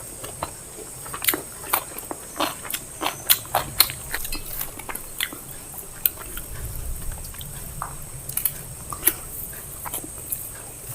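Close-up eating sounds of biryani and salad being chewed and bitten: wet mouth sounds and irregular sharp crunches and clicks, a few a second.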